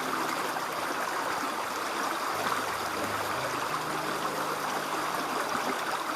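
Water of a stream flowing, a steady, even rushing.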